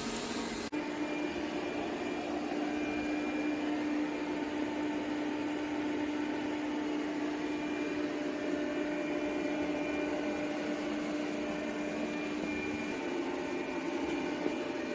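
ECOVACS Deebot T50 Omni robot vacuum running: a steady motor hum with a held tone, shifting slightly near the end.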